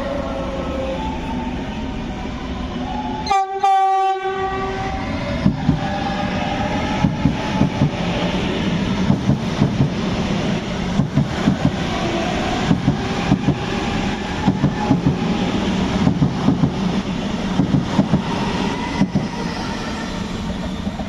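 A train sounds its horn in one short blast about three seconds in, then passes through the station with a steady rumble and a regular clacking of wheels over rail joints.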